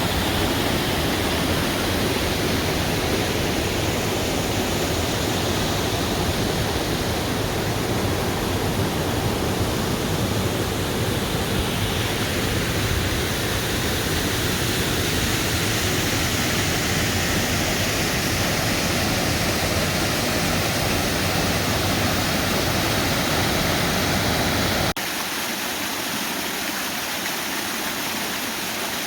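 A forest waterfall pouring: a steady full rush of falling water with a deep low rumble. About 25 seconds in it switches abruptly to a quieter, thinner rush of water with little low rumble.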